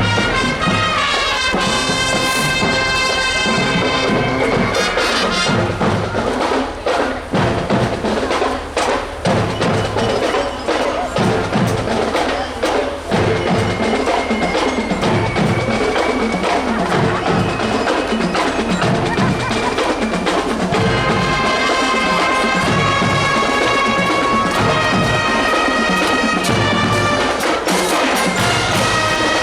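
Marching show band playing: brass chords in the first few seconds and again for the last third, with the drums keeping a steady beat through a mostly percussion stretch in between.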